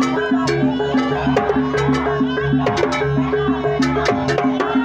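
Jaranan accompaniment: a gamelan-style ensemble of drums and tuned percussion playing a fast, steady repeating figure of pitched notes, with sharp drum strikes on the beat.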